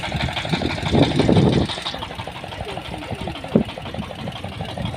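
YTO 350 P mini tractor's engine running steadily with an even, rapid pulsing beat.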